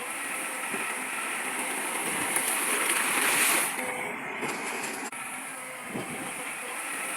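Heavy earthmoving machinery at work: a rough, rushing noise that swells to a peak about three and a half seconds in, then drops off sharply and carries on more quietly.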